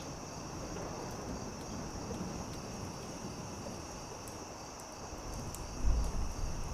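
Night insects, crickets among them, trilling in a steady high chorus, over sparse faint crackles of a campfire. A low rumble swells up near the end.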